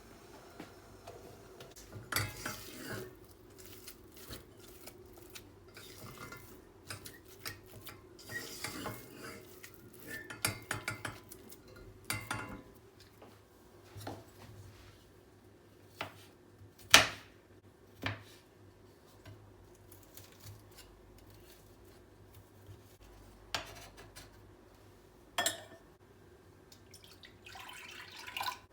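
Kitchen utensil clatter: metal cutlery and utensils knocking and clinking against dishes and pots in scattered sharp strikes, with one loud knock about halfway through.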